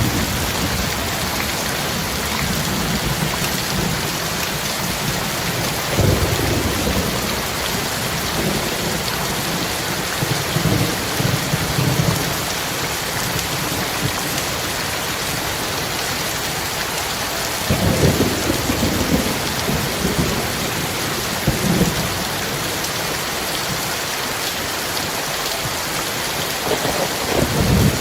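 Heavy rain falling steadily, with thunder rumbling low several times. The loudest rolls come about 18 seconds in and again near the end.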